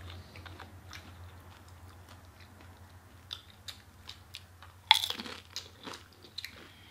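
Chewing and biting into crunchy fried food (chicken wings and nacho chips), with scattered crunches and one loud crunch about five seconds in.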